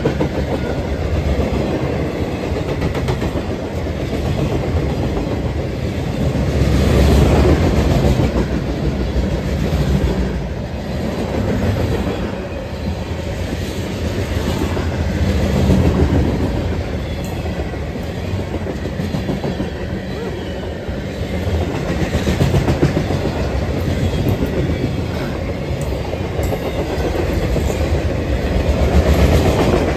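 A CSX freight train's boxcars and covered hoppers roll steadily past close by. There is a continuous rumble with the clickety-clack of wheels over the rail joints, swelling and easing every several seconds.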